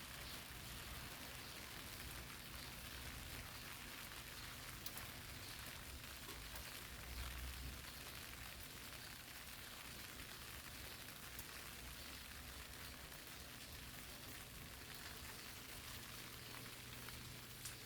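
Rain falling on eggplant leaves: a steady, faint hiss of drops, with now and then a single sharper drop. A brief low rumble comes about seven seconds in.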